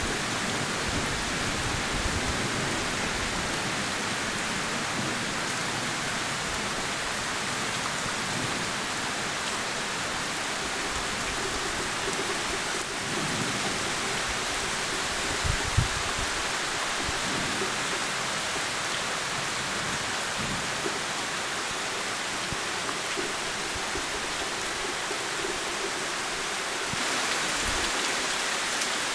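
Heavy rain pouring steadily on trees and the ground, growing a little louder near the end, with a single brief low thump about halfway through.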